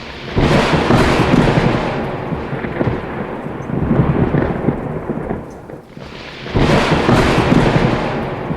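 Thunderstorm: thunder rumbling loudly, with a roll that swells just after the start, fades, and swells again about six and a half seconds in.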